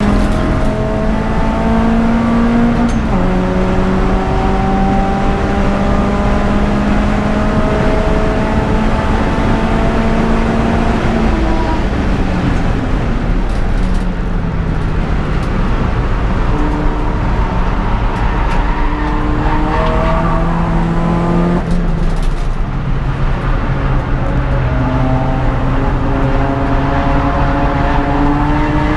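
Peugeot 206 GTI's four-cylinder engine driven hard on a race circuit, its note climbing slowly through the revs and dropping abruptly at gear changes, about three times, over a loud rumble of road and wind noise.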